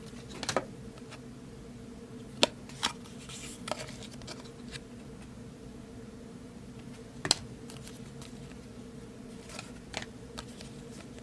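Trading cards being handled and set down: a few scattered sharp clicks and taps, the loudest a little past the middle, over a steady low hum.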